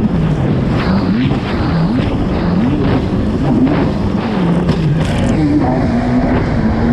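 Kawasaki STX-160 personal watercraft's four-stroke engine under racing throttle, its revs rising and falling again and again, then holding steady near the end.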